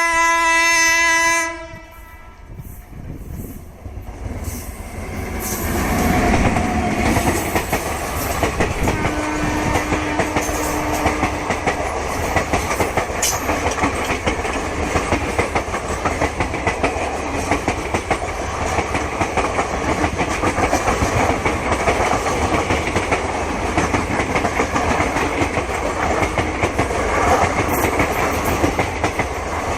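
Indian Railways train horn sounding one loud blast of about a second and a half. Then the train approaches and passes at speed, with a continuous rumble of wheels clacking over the rail joints, and a second, fainter short horn note about ten seconds in.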